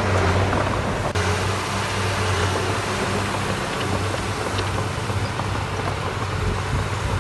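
Diesel engine of heavy earthmoving equipment running steadily at constant speed, a low hum under broad mechanical noise.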